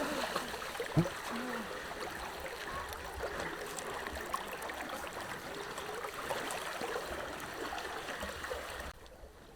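Small stream trickling and gurgling steadily, with a brief sharp sound about a second in. The water sound cuts off abruptly near the end.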